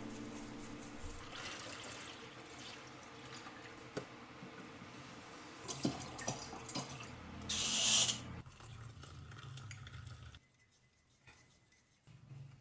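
Water running from a tap, with small clicks and knocks and a short, louder hiss about eight seconds in; it goes much quieter near the end. Background piano music fades out at the start.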